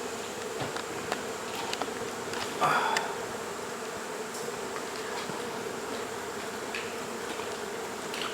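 Honey bees buzzing steadily as a large cluster, a continuous hum with a few faint clicks and one brief louder sound about three seconds in.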